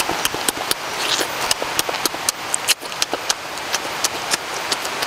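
Close-up wet chewing and lip-smacking of a person eating cooked fish: irregular smacking clicks, several a second, over a steady hiss.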